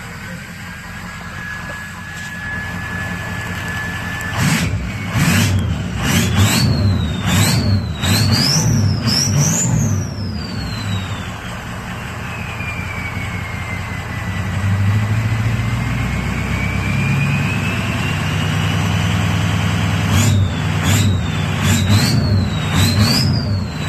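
Turbocharged engine revved in a series of short blips. The turbo whistle climbs in pitch with each blip, and a short sharp noise comes each time the throttle is released. After the first series the whistle winds slowly down in pitch as the turbo spools down, then a second series of blips follows near the end.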